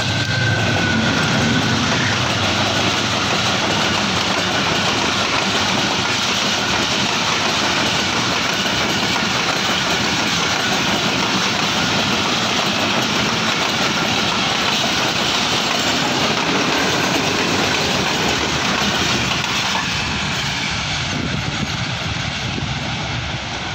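Diesel-hauled passenger train passing close at speed. The locomotive's engine is heard at the start, then comes a loud, steady rumble of the coach wheels on the rails, which eases slightly near the end as the last coaches go by.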